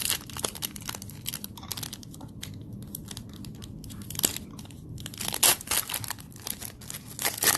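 Plastic trading-card pack wrapper being crinkled and torn open by hand. A quick run of crackles, with louder bursts about five and a half and seven seconds in.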